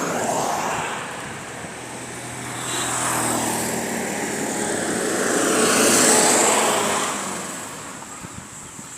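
A motor vehicle passing by: its engine and road noise swell to a peak about six seconds in, then fade away.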